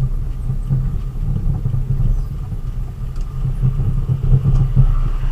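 Vehicle engine running with a steady low rumble and road noise while driving.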